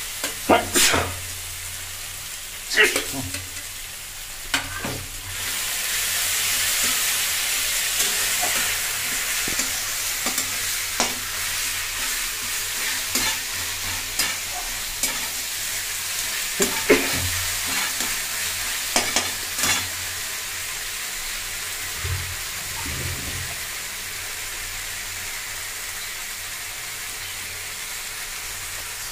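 Chopped tomato and spice paste sizzling in hot oil in a metal kadai, while a flat spatula stirs and scrapes against the pan with many short knocks. The sizzle grows louder about five seconds in.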